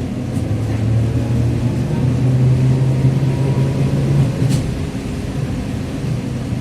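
Inside a TrolZa-5275.05 Optima trolleybus under way: the drivetrain (DK-213A traction motor and Ishimbay drive axle) hums, rising slightly in pitch for a few seconds, then the hum drops away about four seconds in. A short sharp click follows.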